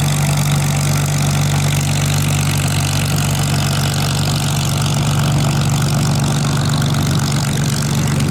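An engine running with a steady, unchanging low drone.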